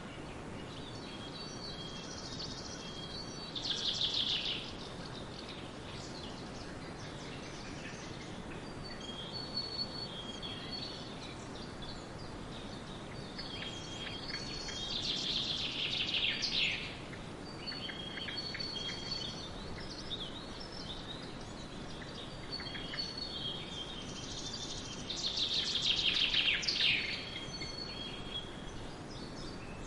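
Birds chirping and trilling over steady outdoor background noise, with a louder call that falls in pitch about 4, 16 and 26 seconds in.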